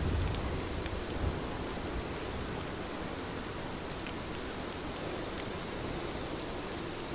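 Heavy rain falling steadily, with scattered drop ticks and a low rumble in about the first second.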